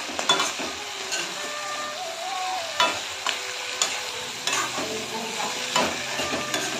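Pork and capsicum frying in a metal kadai, sizzling steadily, while a spatula stirs the pan and scrapes and knocks against its sides several times.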